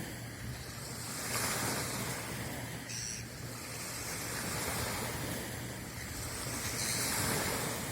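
Sea waves washing in, the noise swelling twice and easing off, over a steady low hum; the waves are a passing yacht's wake stirring up the calm sea.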